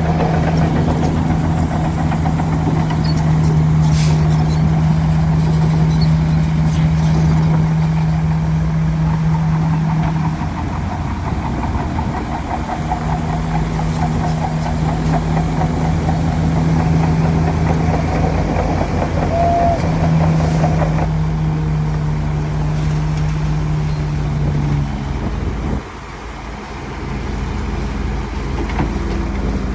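Heavy diesel earthmoving machinery running with a steady, loud engine hum that falters briefly twice as the load changes. The strong engine note drops away a few seconds before the end, leaving a quieter rumble.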